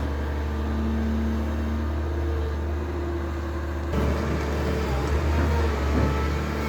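A motor engine running steadily, a low drone with a couple of steady tones above it that shift about four seconds in.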